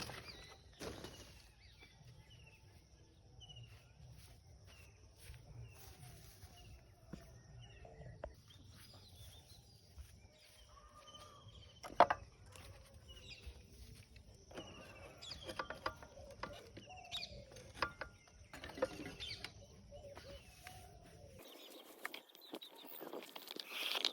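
Birds chirping in short, repeated calls, with a few sharp knocks, the loudest about twelve seconds in.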